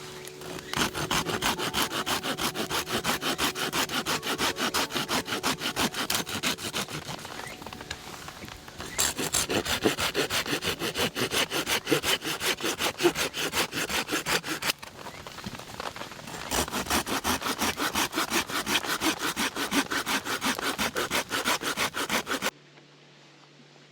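Hand saw cutting through wood with rapid, even back-and-forth strokes, in three bouts with short pauses between them. It cuts off suddenly near the end.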